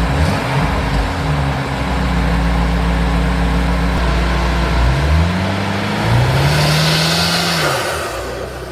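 BMW M8 Competition's twin-turbo V8, with aftermarket downpipes and front intakes, running at a loud idle and then revved twice, the pitch climbing and falling with each blip.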